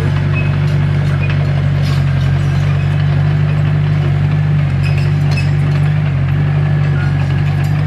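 Diesel engine of a Komatsu D21P crawler bulldozer running steadily, with faint scattered clicks and clinks over it.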